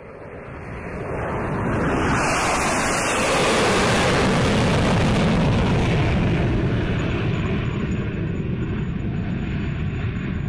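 Landing airliner passing low overhead on final approach: a broad engine roar that builds over the first couple of seconds, is loudest a few seconds in, then slowly fades as it moves away toward the runway.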